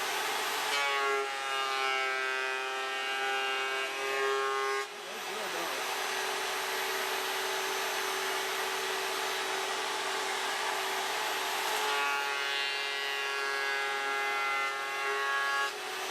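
Vevor electric wood planer running loudly and steadily; twice, for about four seconds each, a stronger whine with several pitches rises over it and then drops away.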